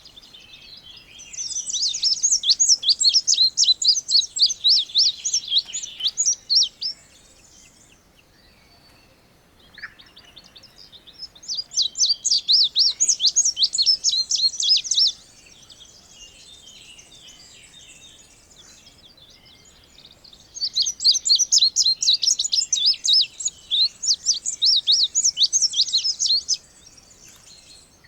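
Indigo bunting singing: three long bursts of rapid, high chirping notes, separated by pauses of a few seconds.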